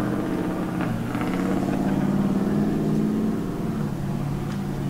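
A car engine running, its note stepping up about a second in and dropping again near the end.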